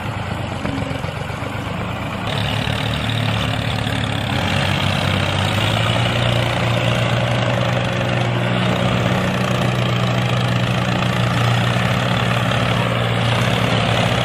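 Tractor engine running steadily with a low drone, getting louder about two seconds in.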